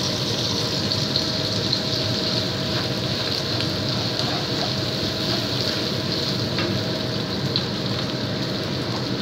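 Sliced onions and curry paste sizzling steadily in hot oil in a wok, with a few light scrapes and taps of a wooden spatula.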